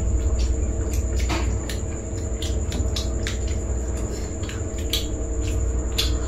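Eating sounds: short, irregular mouth clicks and smacks from chewing spicy food, about two or three a second, over a steady low hum.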